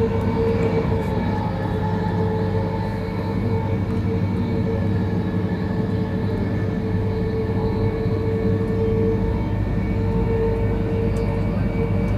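Virgin Trains Class 390 Pendolino electric train running at steady speed, heard from inside the passenger coach: a continuous rumble of the wheels on the track with a constant whine held at one pitch.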